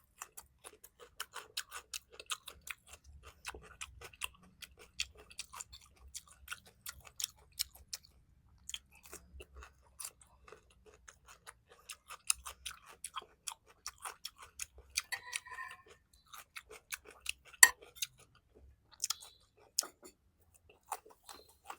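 A person chewing and eating, with many wet mouth clicks and smacks throughout and one sharp, louder click late on.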